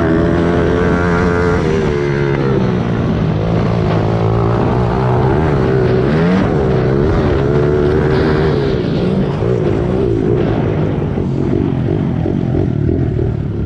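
Small four-stroke single-cylinder pit bike engine running under load, its pitch falling and rising several times as the rider works the throttle and gears, then running rougher and a little quieter near the end.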